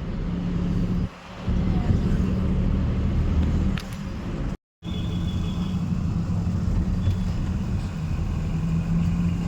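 Car driving, a steady low engine and road rumble with a held hum. The sound drops out completely for a moment about halfway through.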